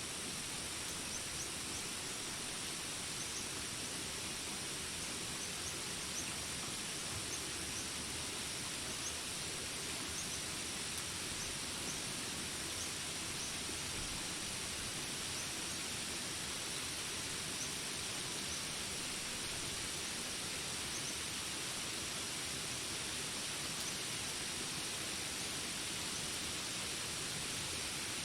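Steady hiss of rain in a jungle soundscape, even and unbroken, with faint short high chirps scattered through it.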